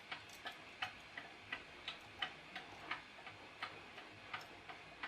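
Wind-up mechanical clock, rebuilt with 3D-printed replacement parts, ticking steadily at about three ticks a second.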